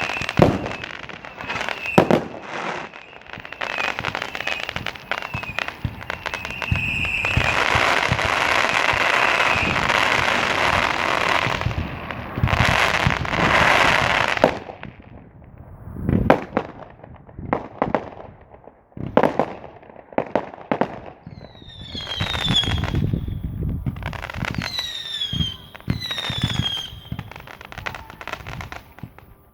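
Fireworks going off: two sharp bangs near the start, then a long stretch of dense crackling, and later several short whistles that fall in pitch, mixed with pops.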